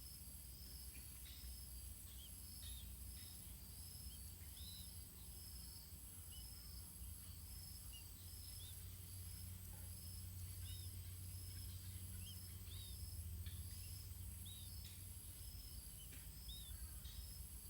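Outdoor ambience of insects chirping in a steady rhythm, a little under two pulses a second, over a constant high insect drone. Short, high whistled bird notes come through now and then, with a low rumble underneath.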